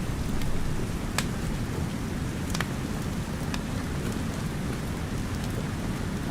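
Steady rain with a low rumble, and a few sharp pops and crackles from a wood fire, the loudest about a second in and again near the middle.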